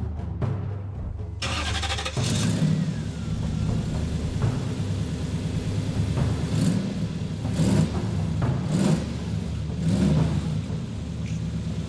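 Old car's engine cranked and catching about a second and a half in, then running and revved several times.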